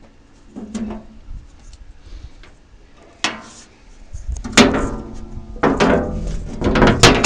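A few light knocks and clicks, then from about four seconds in a series of loud clanks, each ringing on briefly as metal does.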